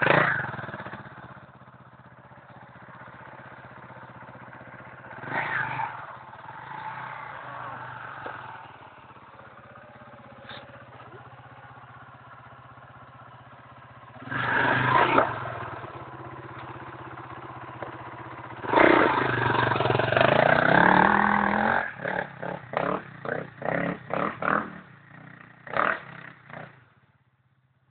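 Enduro motorcycle engine running, with loud surges of revving, the longest lasting a few seconds past the middle. Near the end comes a quick series of short throttle blips.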